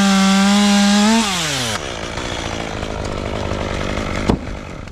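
Chainsaw running at full throttle, then the throttle is let off about a second in and the engine winds down toward idle. A single sharp knock comes near the end.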